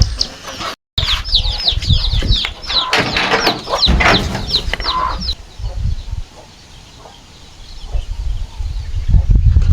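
Chickens clucking and peeping: a quick run of high, falling peeps for about four seconds after a brief break, then it goes quiet. A low rumble comes in near the end.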